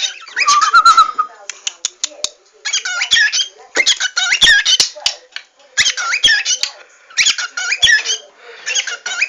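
A small bird chattering in bursts of rapid, twisting high chirps and squeaks, with sharp clicks between them and a wavering lower whistle about half a second in.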